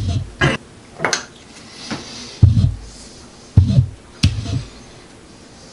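A series of clatters and dull knocks, about one a second, with sharp clicks over low thuds: hard objects being handled and set down. They stop about a second before the end.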